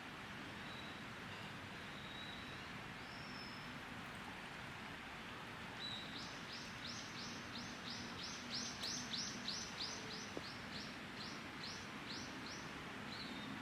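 A songbird singing a long run of repeated, quickly down-slurred high notes, about three a second, swelling in the middle and fading out, after a few short single notes. A steady hiss lies under it.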